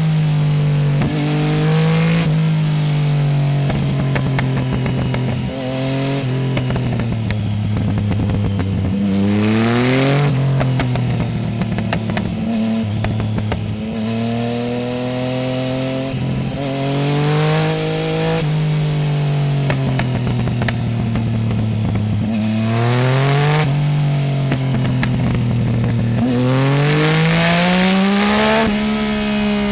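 Yamaha Tracer 900 GT's three-cylinder engine through a full Roads Italia aftermarket exhaust with the dB killer removed, heard close up from under the seat. The engine note climbs steeply under throttle, then sinks slowly as the throttle closes, over and over, with a rapid crackle from the exhaust on the falling stretches.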